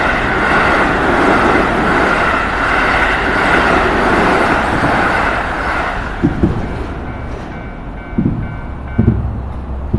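A Keio Line electric train passes over the level crossing, its wheels running loudly on the rails for about six seconds and then fading away. Under it the crossing's warning bell keeps ringing and stops near the end. A few low thumps come in the last few seconds.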